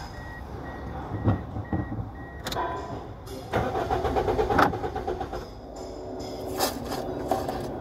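Toyota Vios engine cranked on its starter motor, a steady whine for a second or two after a couple of clicks. This is a test for fuel pressure from a newly fitted fuel pump assembly, replaced because the car would not start.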